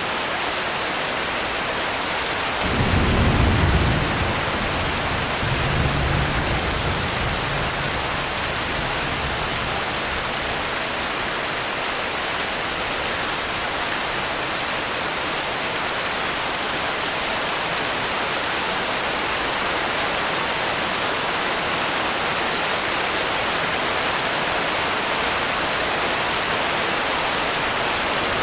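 Steady heavy rain hiss, with a low roll of thunder about three seconds in and a second, shorter rumble a couple of seconds later.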